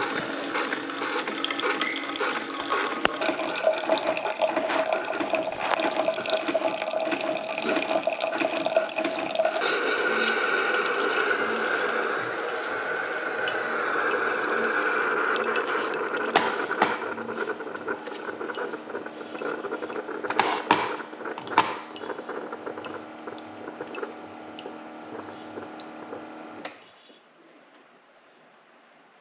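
Water running and pouring into a container that is being filled, with a few clinks, stopping abruptly near the end.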